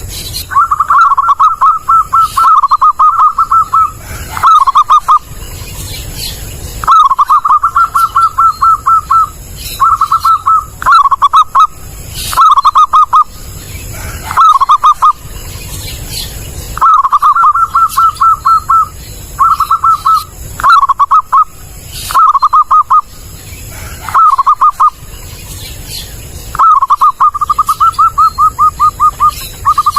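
Zebra dove (perkutut) calling loudly and clearly. It gives repeated bouts of rapid staccato cooing notes: some long runs lasting about two seconds, others short phrases of two or three notes, with short pauses between.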